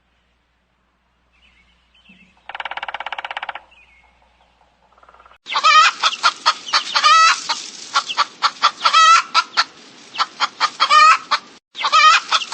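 Chickens clucking, a dense run of short, rapidly repeated calls that starts about five and a half seconds in. Before it there is a single short buzzy call about two and a half seconds in.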